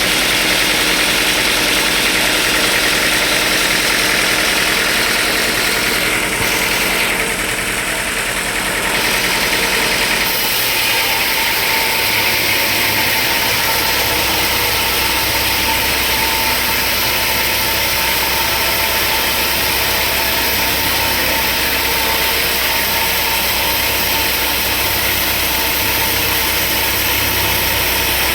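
Sawmill machinery running steadily and loudly, its sound shifting about ten seconds in as a deeper rumble joins.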